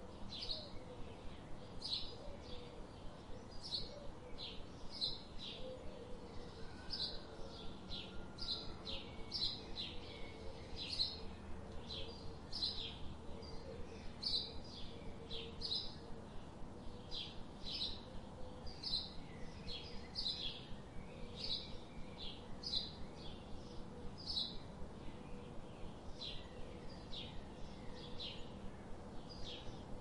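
Songbird chirping: short, high chirps repeating at about two a second, over a faint steady background hiss.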